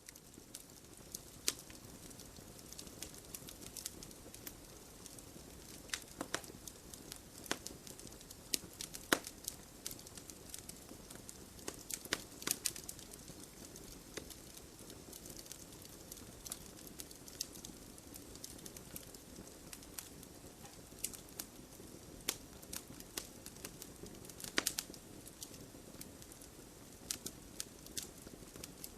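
Wood fire burning in a fireplace: a steady soft rush of flames with irregular sharp crackles and pops from the burning logs.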